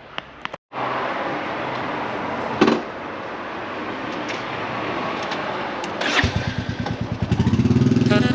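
Royal Enfield motorcycle running with a steady rush of noise, then from about six seconds in an even, rapid thumping of its engine. Music comes in near the end.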